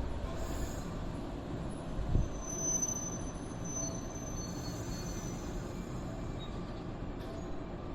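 Train running along the track with a steady low rumble, and a faint high wheel squeal for a few seconds about two seconds in; a low thump about two seconds in is the loudest moment.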